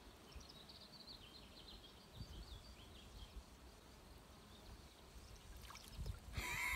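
Quiet pondside ambience with a faint series of bird chirps in the first few seconds. Near the end, a short louder vocal sound with a rising-and-falling pitch.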